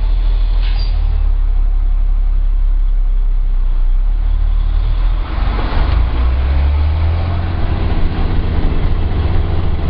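DAF truck's diesel engine running at idle; about five seconds in its note changes and grows stronger as it picks up, with a brief hiss.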